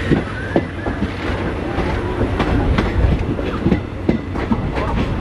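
Passenger train running on the rails: a steady low rumble with irregular clicks and knocks as the wheels clatter over rail joints.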